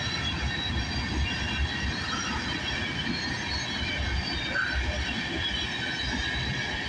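Freight cars of a CN train rolling past: a steady rumble of steel wheels on rail with irregular low thumps, and a faint thin high-pitched wheel squeal over it.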